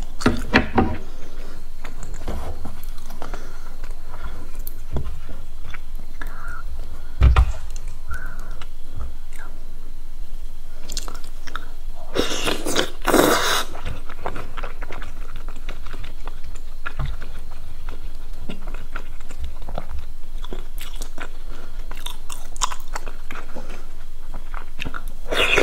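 Close-miked chewing of crispy fried batter (twigim), with crisp crackling crunches throughout and a longer, louder crunching bite about halfway. A single low thump comes about seven seconds in.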